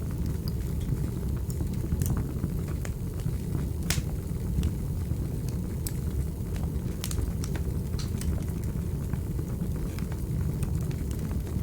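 Wood fire burning in a fireplace: a steady low roar of flames with irregular sharp crackles and pops, one louder pop about four seconds in.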